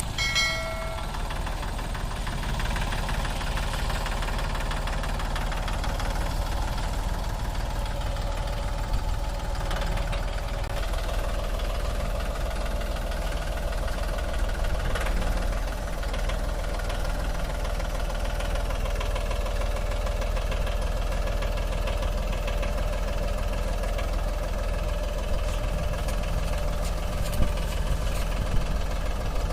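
Tractor diesel engine running steadily, with a steady whine that grows clearer about a third of the way in. A brief high tone sounds at the very start.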